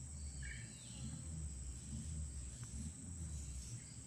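Steady high-pitched insect buzzing over a low rumble, with a brief chirp about half a second in.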